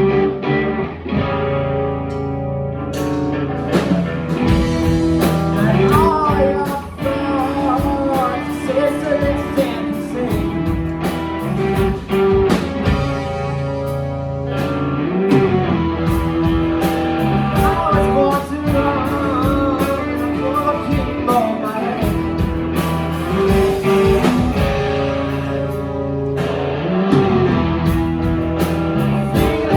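A band playing a song live: a singer over guitar, with steady low notes underneath.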